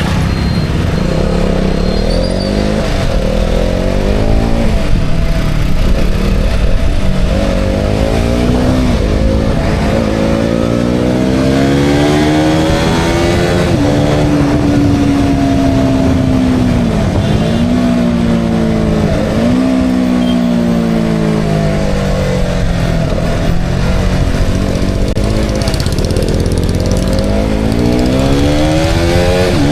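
KTM Duke 200's single-cylinder four-stroke engine pulling hard through the gears. Its pitch climbs and then falls sharply at each gear change. It holds steady for a couple of seconds near the middle, then dips and picks up again a few times as the throttle is rolled off and reopened.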